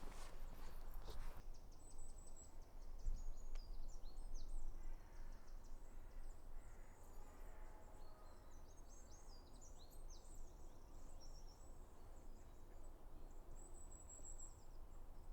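Small songbirds singing, many quick high chirps and trills in overlapping phrases, over a low steady rumble of wind on the microphone. A short rustle comes at the very start.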